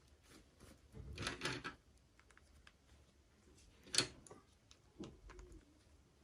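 Toy packaging being handled during an unboxing: a brief rustle about a second in, then one sharp click, then a softer knock a second later.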